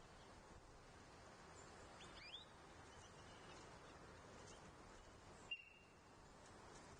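Quiet outdoor ambience with a few faint wild bird chirps: a couple of short rising chirps about two seconds in and a single sharper, brief note about five and a half seconds in.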